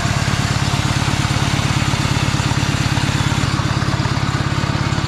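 Small engine of an off-road riding lawn mower running steadily at idle, with an even, rapid pulsing beat.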